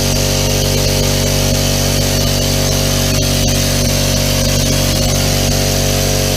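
Central Pneumatic 26-gallon, 1.8 HP oil-less air compressor running steadily, its pump charging the tank at about 30 PSI on the way to 100 PSI.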